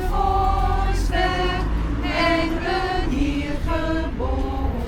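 Carolers singing together in the street, a small group of mixed voices holding sustained notes of a Christmas carol, over a low rumble of background noise.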